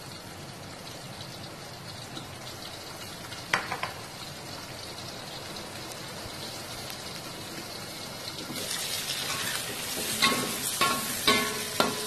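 Oil sizzling steadily under a glass wok lid as fish fries, with one small clink. About eight and a half seconds in, a louder, brighter sizzle as chilies, tomatoes and shallots fry in an open wok for sambal terasi, with a metal spatula clinking and scraping against the wok several times.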